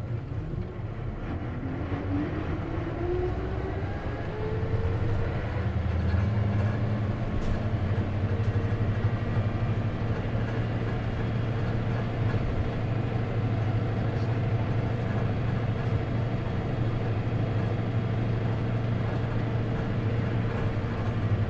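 Isuzu KC-LV380N manual-transmission city bus heard from inside the cabin as it pulls away. Its engine and drivetrain rise in pitch together over the first five seconds as it gathers speed, then run steadily while it travels on.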